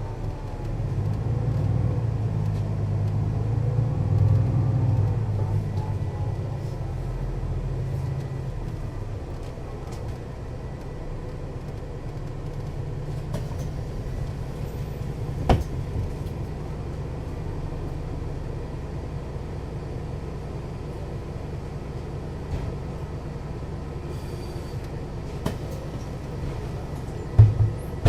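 Mercedes-Benz O 530 Citaro city bus engine and ZF automatic gearbox running, louder over the first several seconds, then settling to a steadier, quieter drone. A sharp click about halfway through and a couple of thumps near the end.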